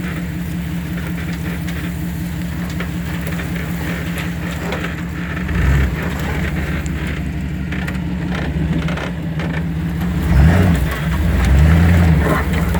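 Two-wheel-drive Chevy's engine running steadily while driving off-road, with the revs rising and falling in a short surge about halfway through and a longer one near the end.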